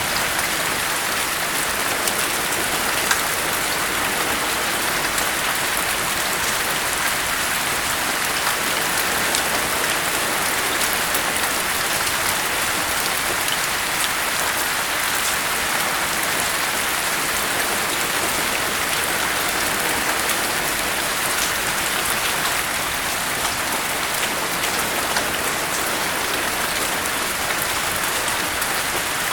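Steady rain falling, a continuous even hiss with fine pattering drops.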